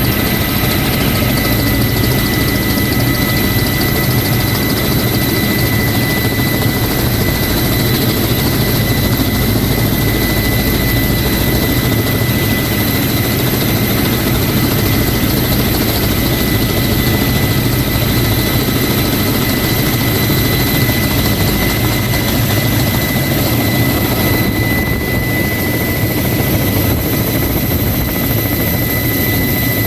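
Helicopter running steadily, a high whine held at one pitch over the rotor and engine noise.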